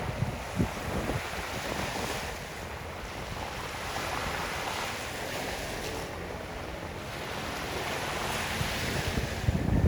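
Sea surf washing steadily, with wind gusting across the microphone in low rumbles.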